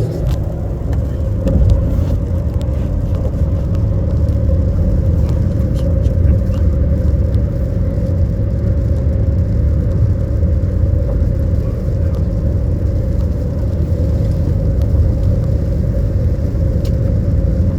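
Steady road rumble inside a moving car's cabin, with a constant hum above it and scattered light ticks.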